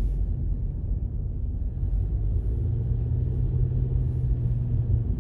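Car driving, heard from inside the cabin: a steady low rumble of engine and road noise, with a low steady hum joining in about two seconds in and stopping near the end.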